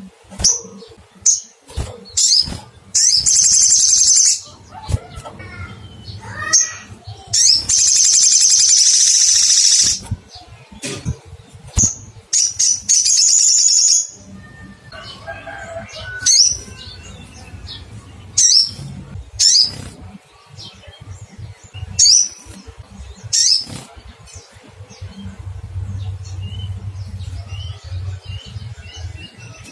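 Olive-backed sunbird calling: repeated sharp, high 'cuit' chirps that slide down in pitch, broken by three long, fast, high trills in the first half. These are the sogon's territorial calls to a rival.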